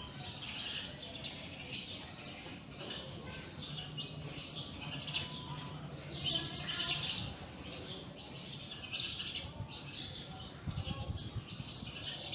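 Many small birds chirping at once in a dense, overlapping morning chorus, with quick high calls crowding one another without a break.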